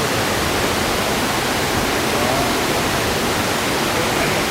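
Waterfall rushing: a loud, steady roar of falling water that stays constant throughout.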